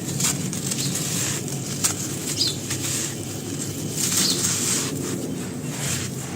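Dry, brittle black grainy material with white stones in it crunching as it is crushed and crumbled: a dense run of small crisp cracks and crackles.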